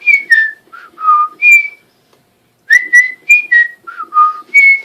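Cockatiel whistling a short tune of clear, sliding notes, then repeating the same phrase about halfway through.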